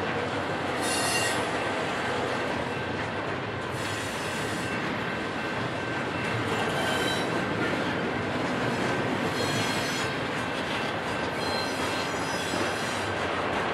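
Double-stack intermodal well cars rolling past, with the steady rumble of steel wheels on rail. Brief high-pitched wheel squeals come about every three seconds.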